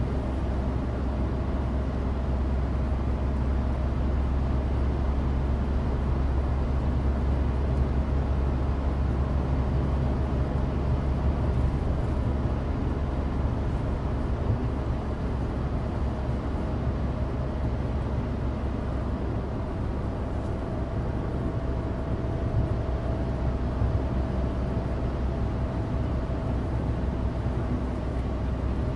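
Cabin noise inside a 2016 Suzuki Alto Turbo RS under way: its 660 cc turbocharged three-cylinder engine and studless winter tyres rolling on dry road, a steady low drone.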